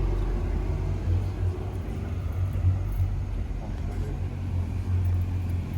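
Steady low rumble of vehicle noise, with no sharp events standing out.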